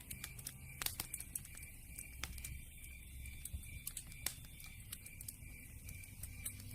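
Campfire crackling: irregular sharp pops and snaps over a soft low rumble, with the louder pops about a second in and again a little past four seconds.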